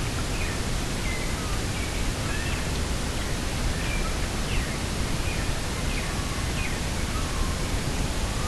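Steady rushing of wind and sea on a coastal field, with faint, scattered bird chirps and short down-slurred whistles over it.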